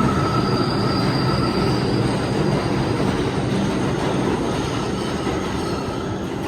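New York City subway 5 train running along the platform, a loud steady rumble of wheels on rail with a thin high wheel squeal over the first two or three seconds that then fades. The noise eases slowly toward the end.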